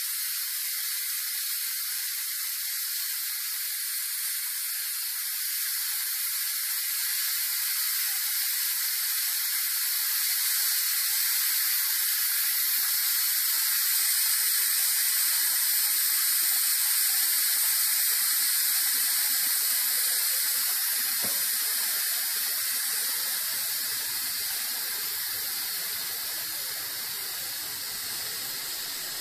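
Pressure Cooker Pro electric pressure cooker venting steam through its pressure-release valve after cooking. It makes a steady hiss that swells a little midway, then eases toward the end as the pressure drops.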